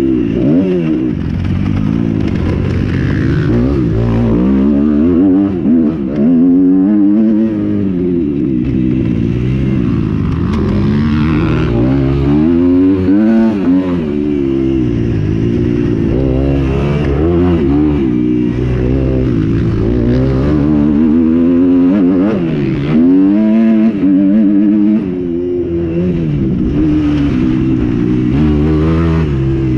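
Several motocross bikes racing, their engines revving up and dropping back over and over as they accelerate and shift, overlapping one another.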